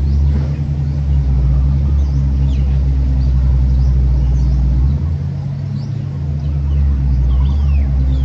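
Deep, steady truck-engine rumble that drops off briefly about five seconds in and then comes back. Birds chirp faintly in the background.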